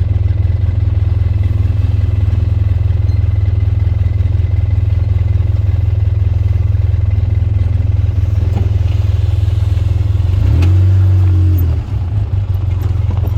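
Off-road vehicle engine running with a steady low drone and a wavering pitch. About ten seconds in it revs up briefly and louder, then drops back.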